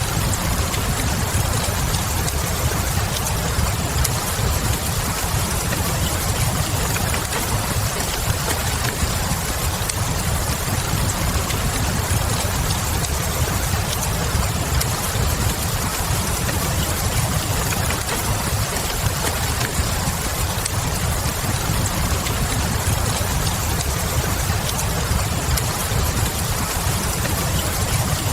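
Steady rain with a fireplace burning: a constant low rumble and even hiss, with a few faint crackles from the fire.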